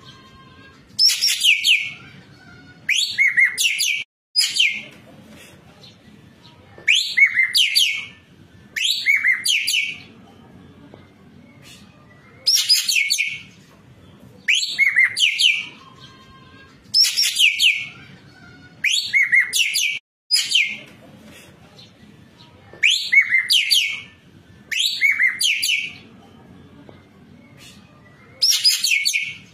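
Ekek keling bird calling over and over, each call a quick string of high notes lasting about a second, mostly given in pairs two seconds apart with longer pauses between the pairs.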